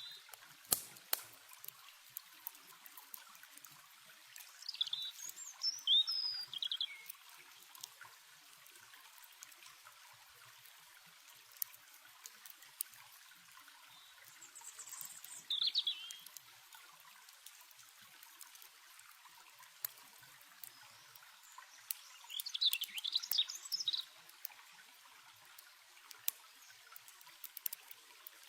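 A stream running steadily, with songbirds singing in three short bouts of chirps and trills and the scattered sharp crackles of a campfire.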